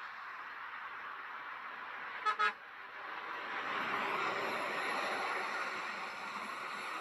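Two quick vehicle horn toots about two seconds in, over road traffic noise that grows louder past the halfway point as a vehicle approaches.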